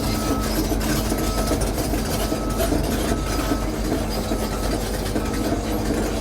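Cat 325 excavator's diesel engine running steadily with the throttle raised. A travel alarm beeps about once a second as the machine moves on its tracks.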